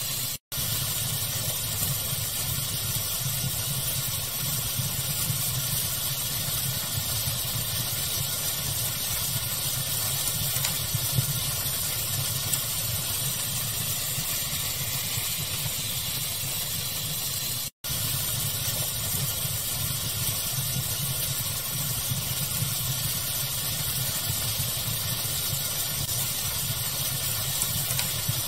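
Steady rushing fire ambience blended with pink noise, with an occasional faint crackle. It cuts out to silence for a split second twice, once right at the start and again a little past halfway.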